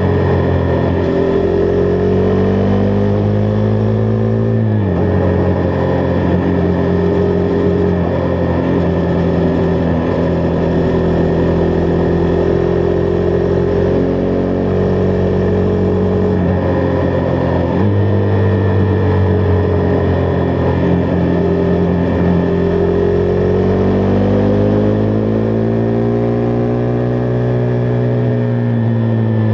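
Husqvarna Vitpilen 401's single-cylinder engine running under way. Its note drops sharply about five seconds in, steps back up near eighteen seconds, and rises and falls again in the last few seconds.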